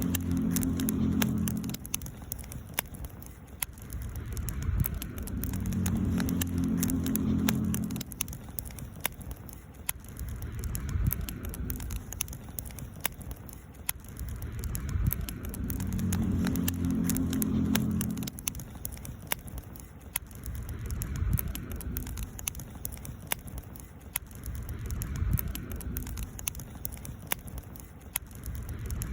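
Wood campfire crackling, with frequent small pops and snaps. A low hum swells and fades every few seconds beneath it.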